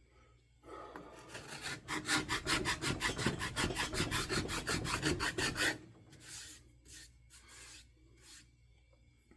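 Wooden axe handle being worked by hand with an abrasive tool in quick back-and-forth strokes, about five a second for some five seconds, then a few slower single strokes.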